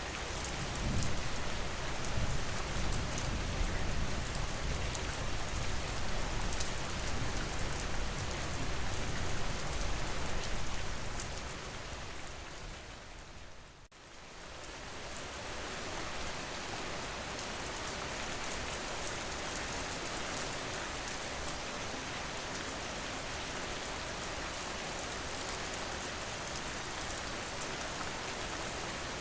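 Steady rain falling, with a fine patter of drops over a low rumble. About fourteen seconds in it fades down to almost nothing and swells straight back, the rain after the dip carrying less rumble.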